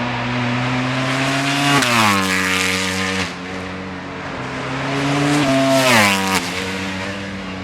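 Ducati Panigale V4 superbikes at racing speed: the V4 engine note climbs, then two bikes pass, about two seconds in and about six seconds in, each pass loud with its pitch sweeping down as it goes by. A lower engine drone runs steadily underneath.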